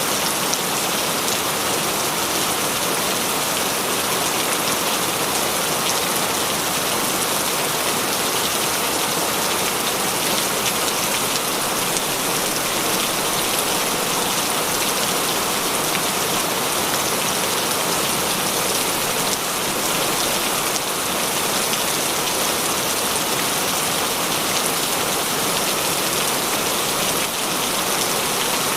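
Heavy rain falling steadily, a dense even hiss of drops pattering on surfaces with fine individual drop ticks.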